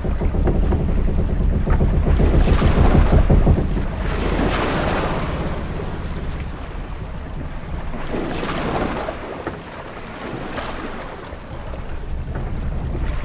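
Ship-at-sea ambience: waves washing around a ship's hull with wind, over a steady low rumble. The wash swells and fades every couple of seconds, louder in the first few seconds and easing off later.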